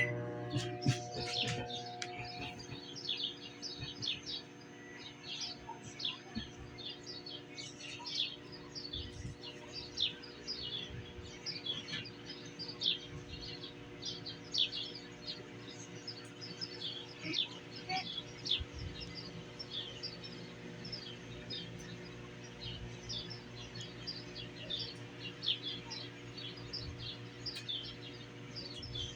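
Microwave oven running with a steady electrical hum. Many short high chirps sound over it throughout.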